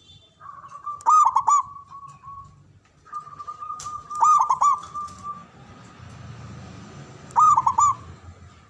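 Perkutut (zebra dove) singing: three song phrases about three seconds apart, each a quick run of rolling coos, linked by a thinner held note at the same pitch.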